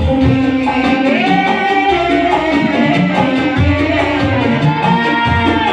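A live band playing a pop Sunda song over a PA system, with a steady bass-and-drum beat under a sung melody line.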